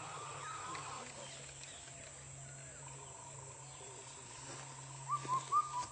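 Indian cuckoo calling its four-note 'kafal pako' phrase once, loudly, near the end, after fainter notes at the start, over a steady low hum.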